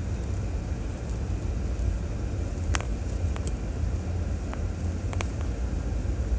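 2006 Chevrolet Trailblazer driving along a trail: a steady low rumble of engine and tyres, with a few sharp clicks near the middle and again about five seconds in.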